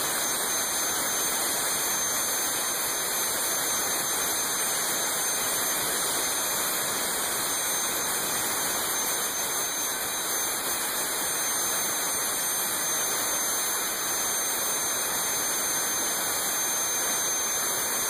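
Garrett F109 turbofan jet engine running steadily at idle: an even rushing roar with several thin, high, steady whine tones above it.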